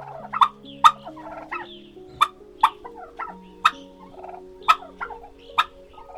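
Domestic fowl calling: about seven short, sharp calls at uneven intervals, over soft background music with held notes.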